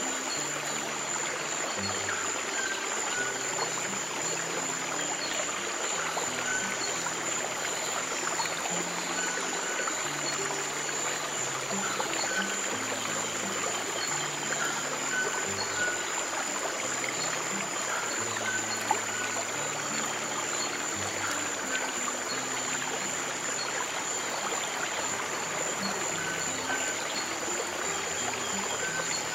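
Steady flow of stream water mixed with slow, soft piano music, its low notes held and changing every second or two.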